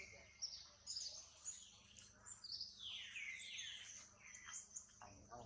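Birds chirping and calling: quick high chirps throughout, with a couple of longer falling calls about halfway through.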